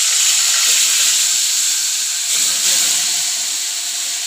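Raw chicken pieces frying in hot oil in a pot: a loud, steady sizzle right after the meat has gone into the oil.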